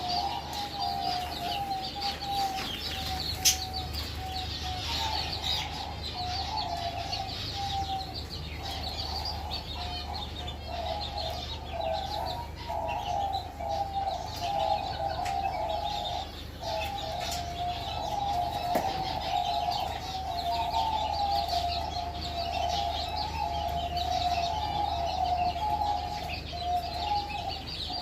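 A flock of chickens clucking steadily, with high chirping over it and one sharp click about three and a half seconds in.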